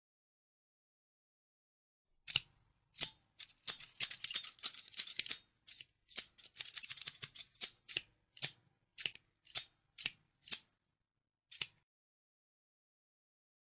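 Scissors snipping. After about two seconds of silence come a few single snips, then two flurries of quick snips, then a run of single snips about twice a second that stops a couple of seconds before the end.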